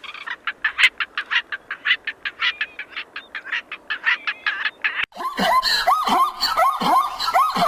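A rapid run of short, sharp animal calls, about five a second. About five seconds in there is an abrupt cut to a dog's high, whining yelps, repeated every half second or so.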